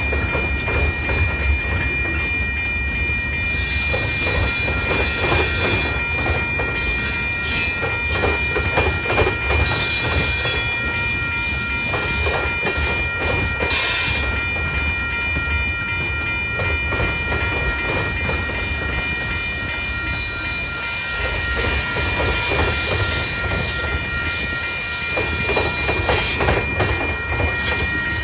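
Freight train of tank cars and covered hoppers rolling steadily past a grade crossing: a continuous rumble and clatter of wheels over the rails. Steady high-pitched tones sit over it throughout, with brief surges of hiss about ten and fourteen seconds in.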